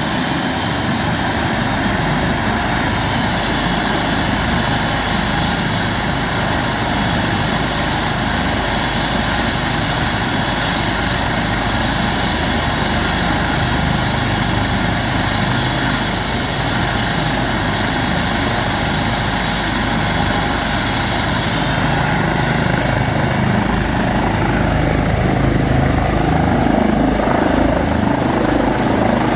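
Medical helicopter running, its turbine giving a steady high whine over the rotor noise. From about two-thirds of the way through, the whine rises in pitch and the sound grows a little louder as power comes up for takeoff.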